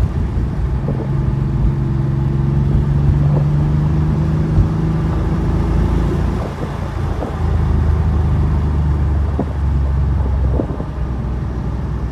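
Porsche 964's air-cooled flat-six pulling the car through the gears, its note slowly rising, then dropping sharply about halfway through at a gear change and holding lower after it.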